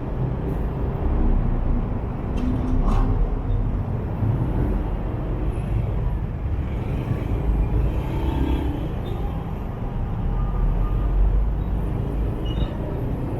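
Motorbike ride through city traffic: engines running and the steady low rumble of road traffic, with a few faint passing tones from other vehicles.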